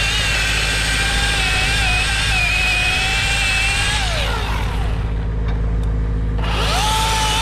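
Chainsaw running at high revs. About four seconds in the throttle is let off and the pitch falls, then it revs back up near the end. A steady low engine drone runs underneath throughout.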